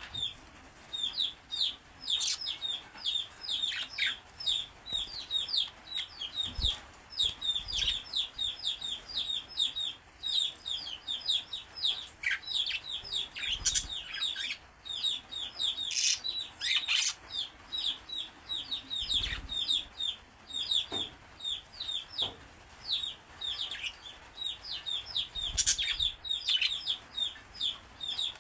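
Two budgerigars chattering and warbling: a steady stream of rapid chirps, broken now and then by falling whistles.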